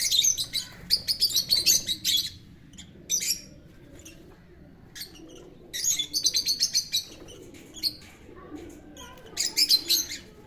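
Small pet parrots, budgerigars and lovebirds, chirping in rapid high volleys that come and go every few seconds.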